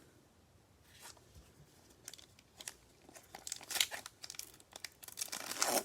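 Crinkling and light tearing of a foil trading-card pack wrapper, with cards being handled, in scattered soft rustles that grow louder about four seconds in and again near the end.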